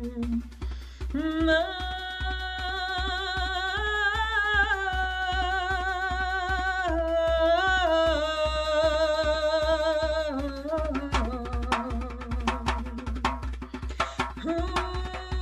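Music: a wordless voice sings long, wavering held notes over a steady hand-drum beat. The voice drops out about ten seconds in, leaving the drum, and comes back near the end.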